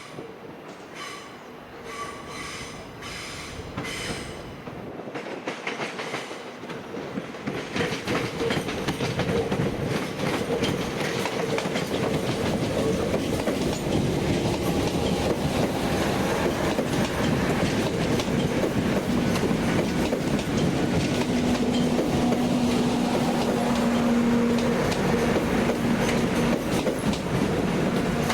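A train running through the station, its wheels clicking over rail joints. The sound grows louder over the first ten seconds or so and then stays steady and loud.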